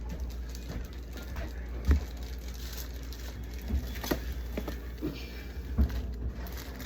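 A container of blackberries being handled as the berries are picked through for mold: scattered light clicks and rustles, with soft knocks about two seconds in and again near six seconds.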